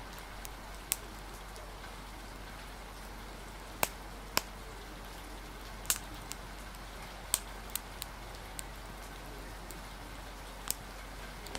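Steady hiss of rain with irregular sharp pops and crackles from a wood fire, about ten in all.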